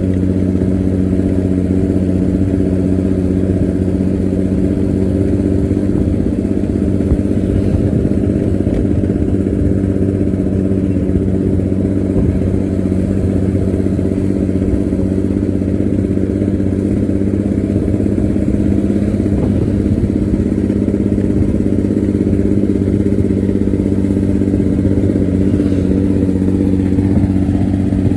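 Diesel engine and exhaust of an Indonesian economy bus (bus bumel) running at a steady speed, with the deep snoring exhaust note ('ngorok') the bus is known for.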